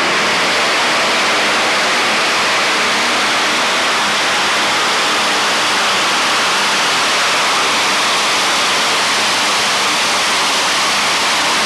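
Modified pulling tractor's engine running at full throttle during a pull, a loud, steady, dense roar.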